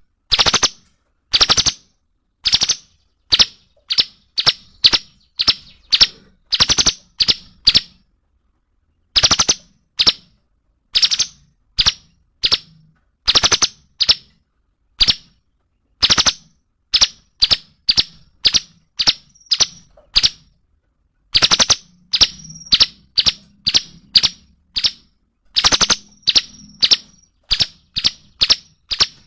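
Cungkok songbird singing loudly: sharp, clipped notes fired in quick runs of several at a time, with short pauses between runs. Near the end a few notes trail into a short, thin held whistle.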